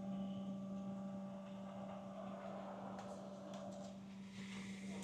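Steady electrical-sounding hum with fainter higher tones above it, heard inside a vehicle as it pulls up; it cuts off at the very end.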